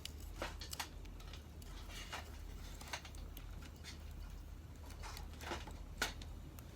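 Sparse light clicks and crackles, the sharpest about six seconds in, over a steady low hum.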